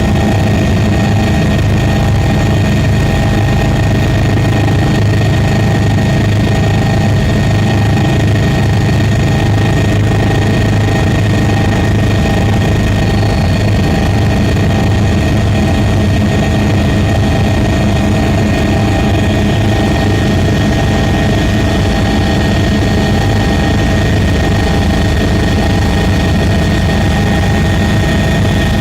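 Aircraft motors and propellers running steadily: a constant low hum with several steady whining tones over it, unchanging throughout.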